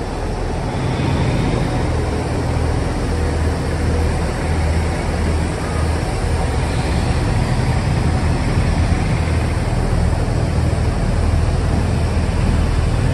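Pullman railway coaches rolling slowly past on the track: a steady low rumble of wheels and running gear, swelling and easing slightly.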